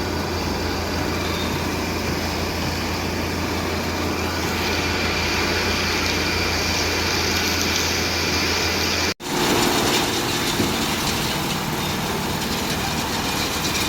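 Steady noise of machinery running, with a strong low hum. It breaks off abruptly about nine seconds in and gives way to a different steady machine noise without the hum.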